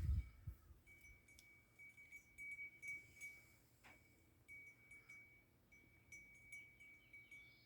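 Near silence: faint outdoor background with a thin, steady high-pitched tone broken by short gaps, and faint quick ticking. A few low thumps sound right at the start, and a single click about four seconds in.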